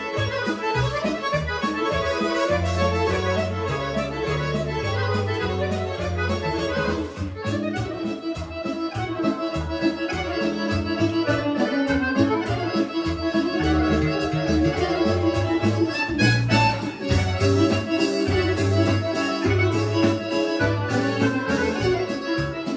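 Serbian folk band with violin playing a mixed kolo, a fast instrumental dance tune with a quick, even beat under a moving bass line.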